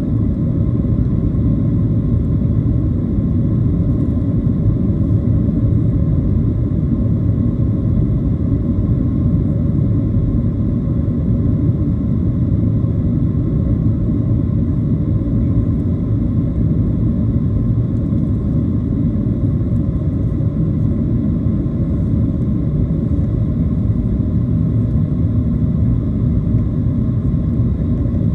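Cabin noise inside a Boeing 737-700 airliner: a steady low rumble from its CFM56 jet engines and airflow, with a faint steady whine above it.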